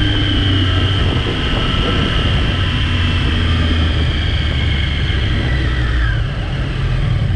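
Sport motorcycle engine on stock exhaust running steadily with its pitch slowly falling and a short downward glide about six seconds in, with heavy low rumble.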